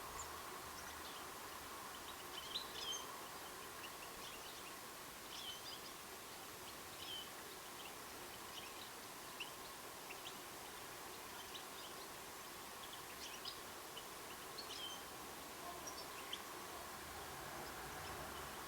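Small birds giving short, high chirps here and there, over a steady background hiss.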